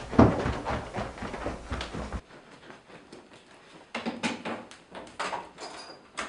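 Hurried knocking and rustling, then after a quiet moment a wooden toilet-cubicle door is pulled shut, with a cluster of knocks and latch clicks.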